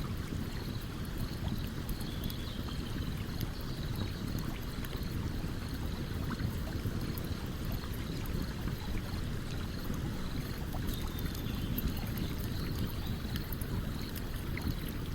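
A stream running steadily, with scattered small crackles from a campfire burning beside it.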